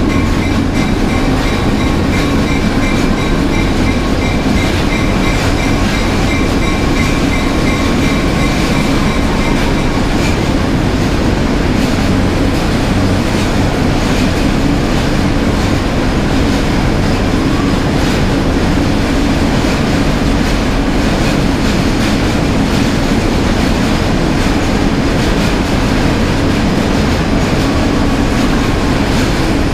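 Diesel locomotive running and train wheels rolling on the rails, heard from the car just behind the locomotive as the train passes through a rock tunnel. The rumble is steady and loud throughout, with a thin high whine that stops about ten seconds in.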